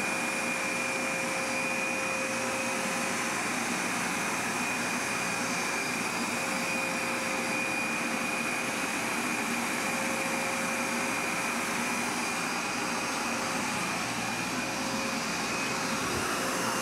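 Hoover SmartWash+ carpet cleaner running steadily: an even rush of suction air with a constant high whine from its motor.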